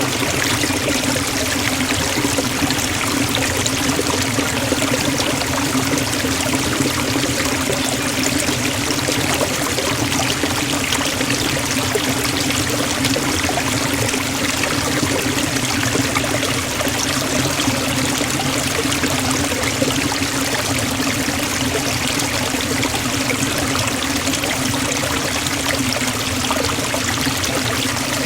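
Waterfall splashing into a stream: a steady, unbroken rush of falling water.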